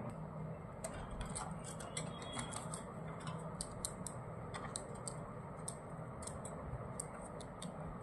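Light, irregular clicks and taps of parrots' beaks pecking and tapping in their cage, coming thickest in the first few seconds, over a low steady hum.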